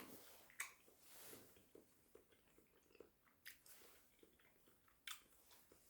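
Faint sounds of a person chewing food, with soft small ticks and a few sharper clicks.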